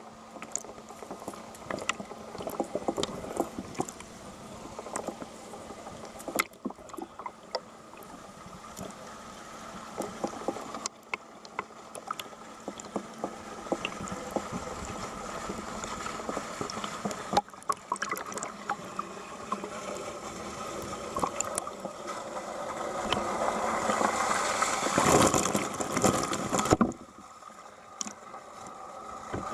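Water in a geothermal bathing pool lapping and splashing, with many small irregular splashes. It grows louder toward the end and then cuts off abruptly.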